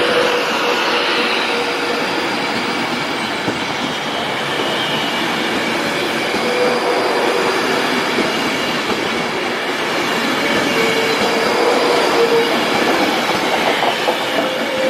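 Train running along the rails with a steady rumble, broken by thin wheel squeals that come and go.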